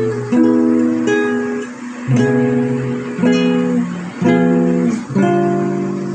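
Acoustic guitar music, with chords strummed about once a second.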